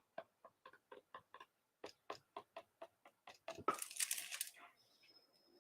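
A run of light, quick taps, about four a second and slightly uneven, typical of dabbing wet paint on a canvas to soften an edge, followed about three and a half seconds in by a brief rustling scrape.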